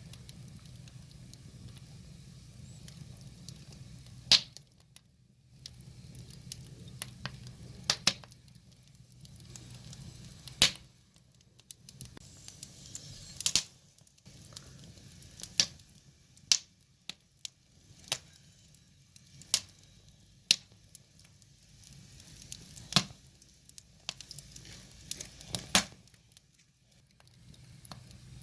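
Firewood burning, crackling with sharp, irregular pops, over a faint steady hum.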